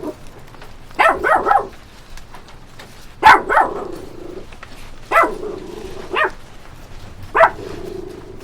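A dog barking in short sharp bursts: a quick run of three, then a pair, then single barks with pauses between.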